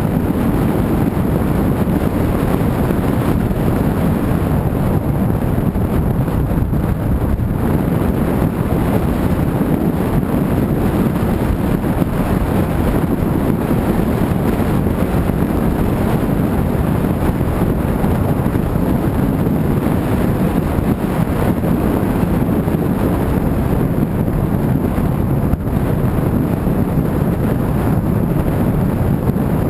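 Steady road and wind noise of a car driving, a constant low rush with wind buffeting the microphone.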